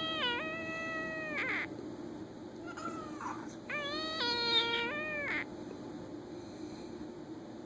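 A man's voice imitating a cat: long, drawn-out high meows. One ends about a second and a half in, and a second runs from about four to five and a half seconds.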